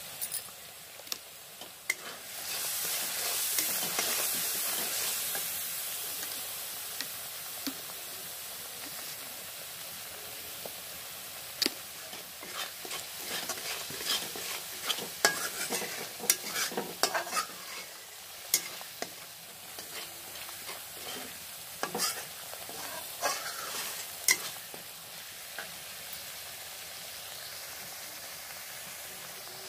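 Onion and spice masala frying and sizzling in a pan while a spatula stirs it and scrapes the pan bottom in quick irregular clicks. The masala is kept moving as it roasts so it does not catch and burn on the bottom. The sizzle swells about two seconds in, and the scraping clicks come thickest in the middle of the stretch.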